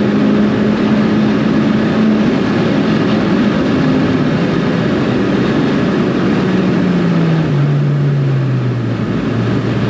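Modified big-turbo Ford Fiesta ST engine under load on track, with road and wind noise behind it. The engine note holds steady for the first few seconds, then falls in steps during the second half as the revs drop.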